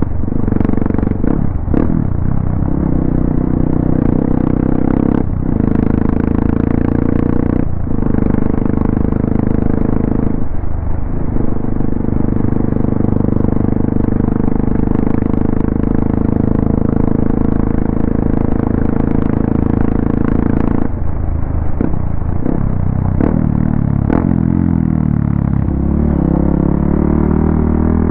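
Hero XPulse 200's single-cylinder four-stroke engine running under way at steady revs, with a few brief dips in the note early on, then the revs falling off over the last several seconds as the bike slows.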